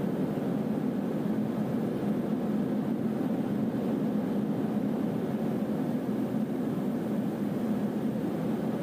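Steady, muffled rushing noise of a thunderstorm, low and even, with no distinct thunderclap.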